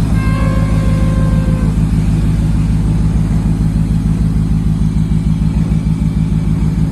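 Truck engine running steadily with a deep, pulsing rumble. A brief steady tone sounds over it in the first second and a half.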